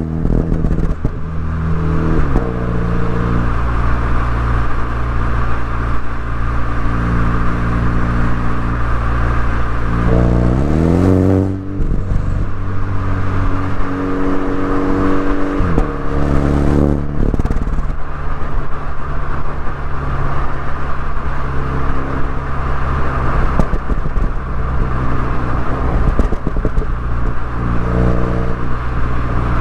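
MINI Cooper S engine and exhaust under way, holding fairly steady revs, then climbing in pitch about ten seconds in and falling off sharply; the revs shift up and down a few more times after that.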